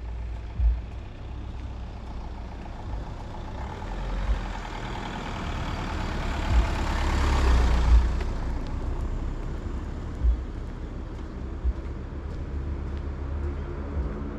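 A road vehicle, most likely a truck, passing by: its noise swells to a peak about seven or eight seconds in and then fades away, over a steady low rumble broken by several short low thumps.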